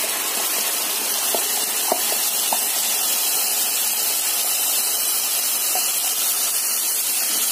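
Ground guava puree hissing and sizzling in hot ghee in a kadai: a steady hiss with a few light clicks.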